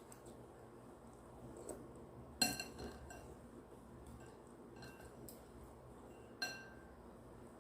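Two clinks of a hard utensil or object against glass or a ceramic dish, each ringing briefly, with a few fainter taps between them.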